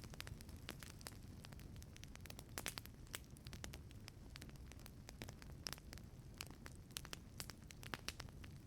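Wood fire burning in a wood-fired pizza oven: irregular sharp crackles and pops over a low, steady rumble. A few louder pops come about two and a half seconds in, near the middle and near the end.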